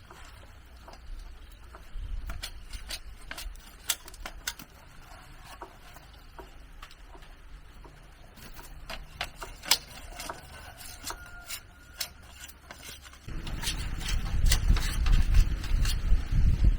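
Irregular light clicks and taps, scattered through, then from about 13 seconds in a loud low rumble of wind buffeting the microphone.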